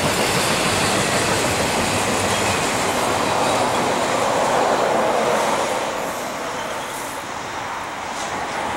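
Double-stack intermodal well cars rolling past, steel wheels clattering steadily on the rails. The sound eases slightly after about six seconds.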